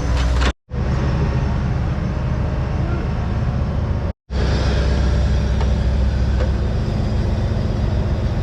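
Off-road competition vehicle engine running steadily under load, with a heavy low rumble, cut off abruptly twice by edits.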